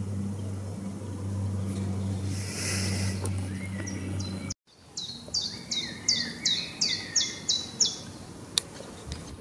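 A steady low hum for the first half. After a sudden cut, a songbird sings a run of about nine quickly repeated high notes, roughly three a second.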